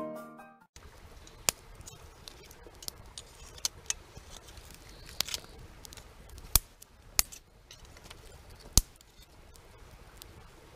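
Background piano music fading out, then a string of irregular sharp clicks and taps over a faint background.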